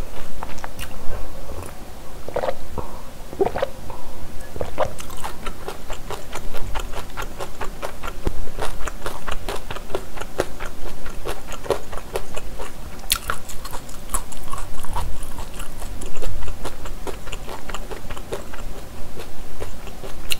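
Close-miked eating sounds: steady wet chewing with a dense run of mouth clicks and smacks, and a few gulps from sipping a drink about two to four seconds in.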